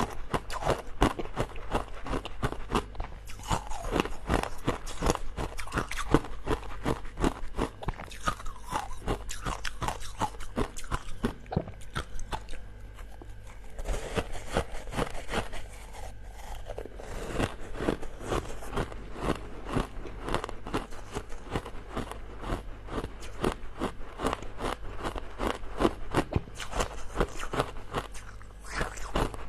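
Coloured ice being bitten and chewed: a fast run of crisp crunches throughout, easing off briefly around the middle.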